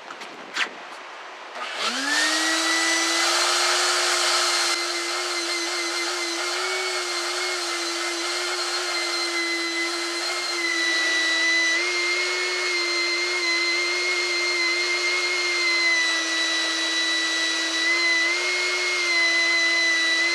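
Vacuum cleaner switched on about two seconds in, its motor spinning up quickly to a steady whine over the hiss of rushing air, cleaning out a van's interior. The pitch wavers slightly now and then.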